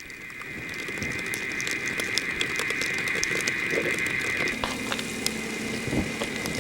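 Irregular mechanical clicking and ticking over a steady high whine. The whine stops about two-thirds of the way through, and a low hum comes in.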